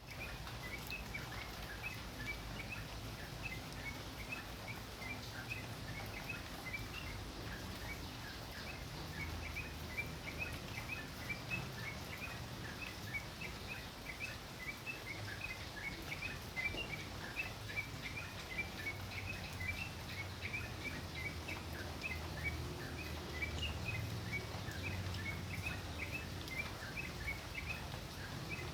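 A tocok songbird singing steadily in a continuous run of short high chirps, several a second. A low steady background rumble sits underneath.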